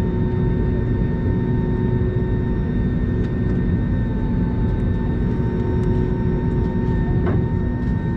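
Airbus A320neo cabin noise on the ground after landing: a steady low rumble with several steady whining tones running through it, and a few faint ticks.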